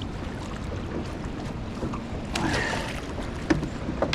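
Steady wind and water noise on a small fishing boat, with a brief louder rush of noise about two and a half seconds in and a few sharp knocks near the end.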